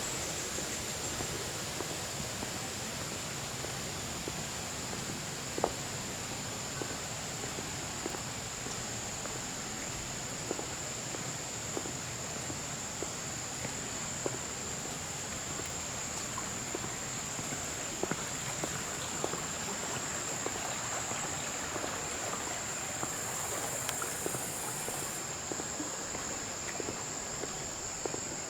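Insects singing in a steady, unbroken high-pitched drone, over a soft background hiss with scattered faint ticks.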